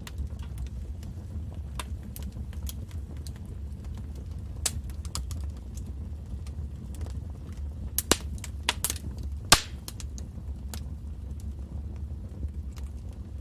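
Wood fire burning in a fireplace: a steady low rumble of flame with irregular sharp crackles and pops, a quick cluster of louder pops about eight to nine and a half seconds in.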